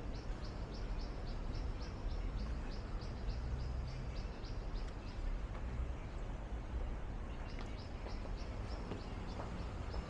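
A small bird chirping in a fast run of short high notes, about three a second, pausing briefly midway and then resuming, over a steady low city hum.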